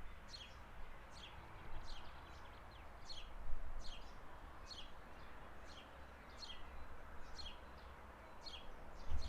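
A bird repeating one short, high chirp over and over at an even pace, about once every 0.7 seconds, over a steady background hiss and low rumble.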